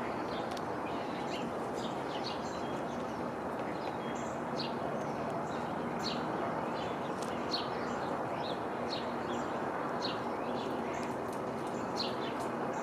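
Small songbirds chirping: many short, high notes, each sweeping down in pitch, repeated every second or so over a steady background rush.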